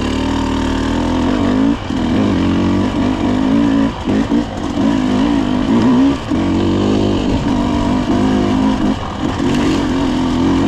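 Dirt bike engine running under load off-road, its pitch rising and falling with the throttle, which is cut off briefly four times.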